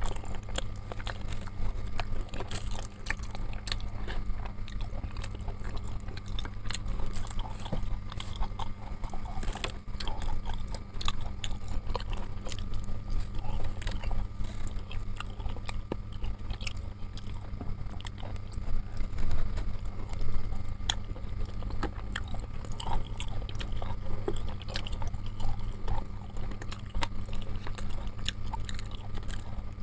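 A man chewing chicken satay off a skewer, with many small mouth clicks throughout, over a steady low hum.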